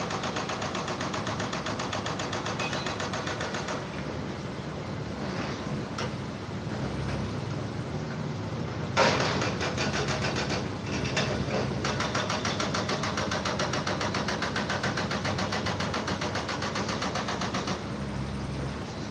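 Machinery running with a fast, even mechanical pulse and a steady low hum, with a few sharp knocks, the loudest about halfway through.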